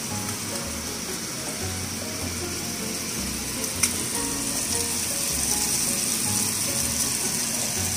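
Ham slices sizzling as they fry in a pan, a steady hiss, with background music underneath and a single click about four seconds in.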